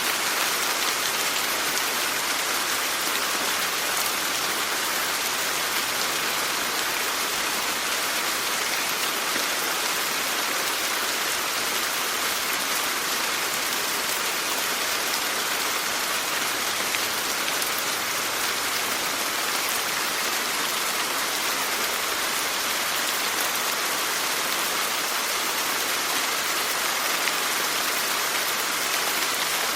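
Steady rain falling, an even hiss strongest in the upper range, with no letting up or change.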